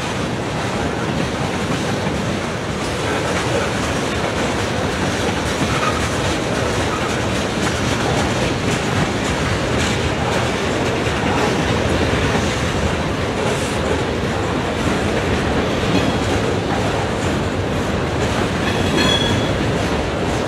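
Train cars rolling past, their steel wheels clattering steadily over the rails. A brief high wheel squeal comes near the end.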